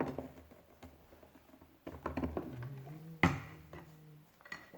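Plastic toy parts being handled and pried apart: scattered clicks and knocks, the loudest a sharp click a little over three seconds in.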